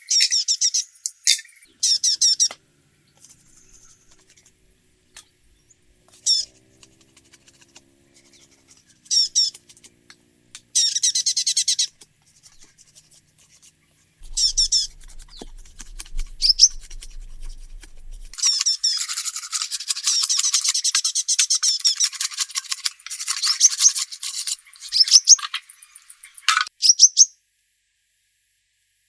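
Small birds chirping in quick bursts of high twittering, separated by short quiet gaps, with a longer run of dense chirping about two-thirds of the way in.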